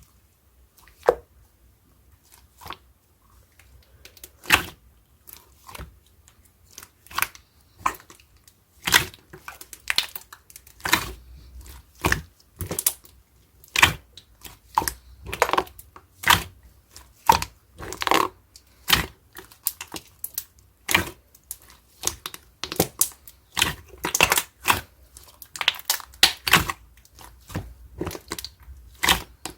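Slime being squeezed and stretched by hand, making sharp sticky pops and crackles at an irregular pace, sparse at first and then coming about once or twice a second.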